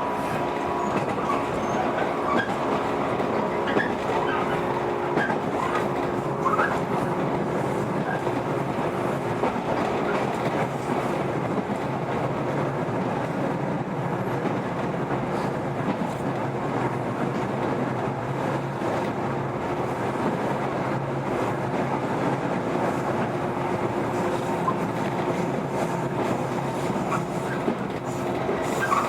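Running sound of a JR 115 series electric multiple unit, heard from inside the passenger car while it runs between stations: a steady rumble of wheels on rail with a constant drivetrain hum.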